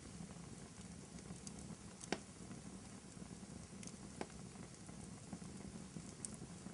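Wood fire crackling in a fireplace: a low steady rustle with scattered small crackles and a sharper pop about two seconds in, another about four seconds in.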